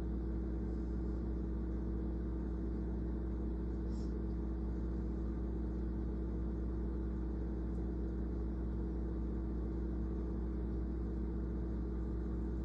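Steady low mechanical hum with a constant drone, and a faint tick about four seconds in.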